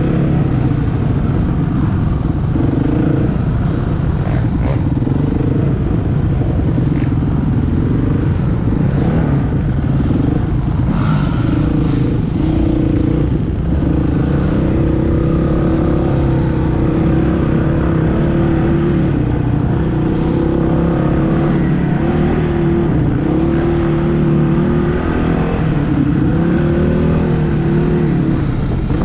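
Motorcycle engine running continuously under way, its pitch rising and falling with the throttle.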